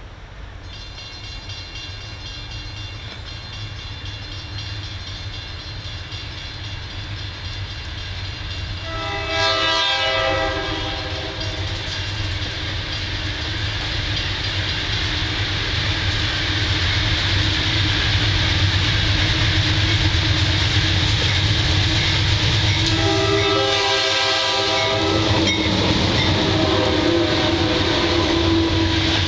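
Freight train led by GE Dash 8 diesel locomotives approaching and passing close by, engines rumbling and growing steadily louder. The multi-chime air horn sounds twice, about nine seconds in and again from about twenty-three seconds. Loud wheel and rail clatter follows as the tank and hopper cars roll past.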